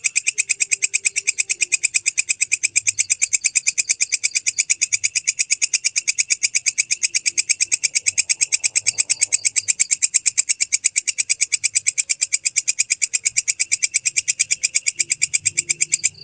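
Walang kecek (belalang kecek) katydid calling: a fast, even train of sharp, high clicking chirps that stops abruptly near the end.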